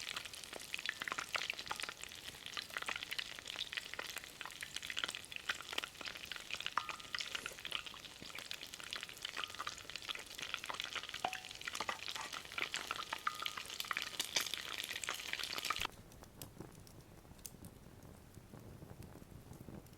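Hot oil sizzling and popping densely as chicken cutlets deep-fry in a cast-iron skillet. About sixteen seconds in it drops off abruptly, leaving only faint scattered crackles.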